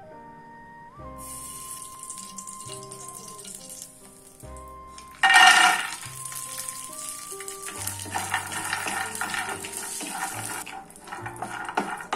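Instrumental background music runs throughout. About five seconds in, a loud short rush as cashews are tipped into a nonstick pan of hot ghee, followed by a steady sizzle of the cashews frying. Light clicks and scraping come near the end as a spatula stirs them.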